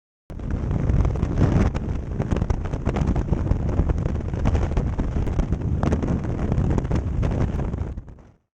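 Wind buffeting the microphone: a loud rushing noise with crackles that fades out near the end.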